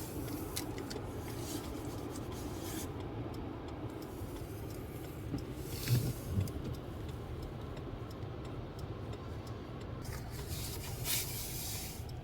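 Steady low rumble of a car's engine and tyres heard from inside the cabin while driving, with a couple of brief knocks about six seconds in.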